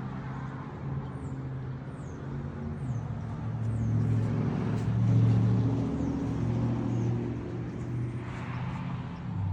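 A car engine running steadily at low revs, its note shifting and growing louder about three seconds in. Faint high chirps, likely birds, come through early on.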